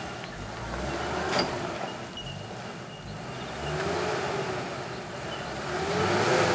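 A bogged 4x4's engine revving up and down in three bursts as it tries to drive out of deep mud, the last and loudest near the end, with a single sharp knock about a second in.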